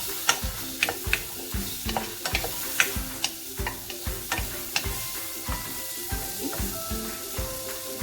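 Leftover chicken curry sizzling in chili oil in a frying pan, with a utensil clicking and scraping against the pan as it is stirred.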